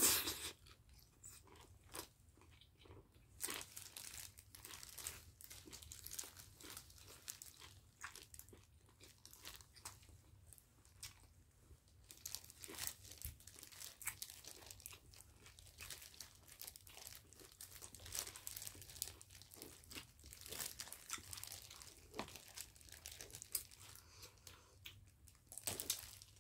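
Close-up mukbang eating sounds: chewing of Korean rice-cake sticks and other food, with scattered crinkling of disposable plastic gloves as the hands handle the food. One brief, louder bite at the very start, then soft intermittent clicks and rustles.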